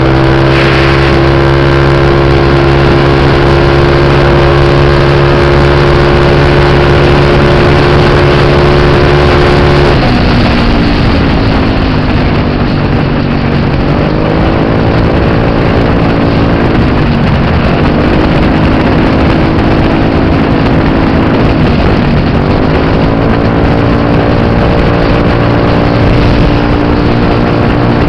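Scooter engine running hard at a steady pitch, the way a CVT scooter holds its revs under full throttle. About ten seconds in the pitch drops and settles lower, then dips and climbs back twice as the throttle is eased and reopened.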